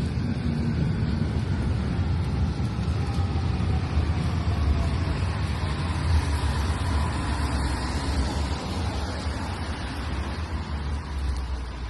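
A road vehicle passing close on a rain-wet street: low engine rumble with tyre hiss and a faint falling whine, fading away near the end.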